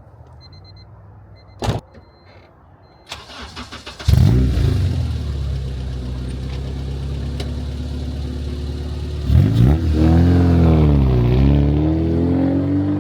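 K24-swapped Honda Civic hatchback's engine. It comes in loudly about four seconds in after a short knock and some rattling, runs at a steady pitch for several seconds, then near the ten-second mark revs, dips in pitch and climbs again as the car pulls.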